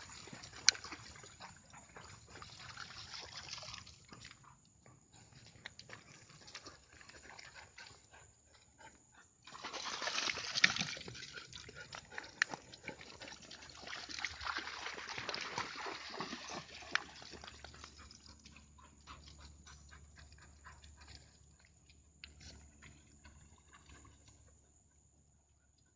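Dogs moving about in water, with sloshing and splashing and many small knocks and rustles. The loudest burst of splashing comes about ten seconds in, and the sound dies away near the end.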